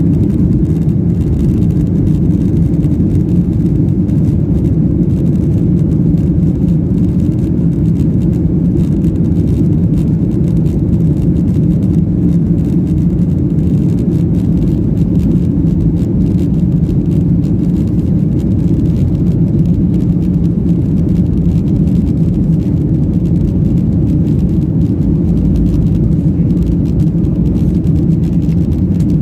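Boeing 737-800 engines running, heard from inside the passenger cabin as a loud, steady low rumble with a faint hum in it.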